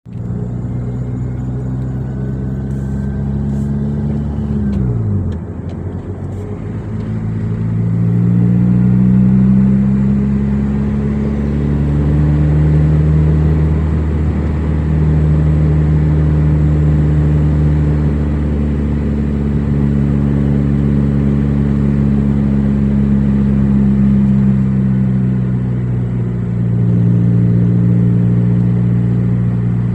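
Car engine running under way: its note drops sharply about five seconds in, climbs back up and holds steady, then eases and picks up again near the end.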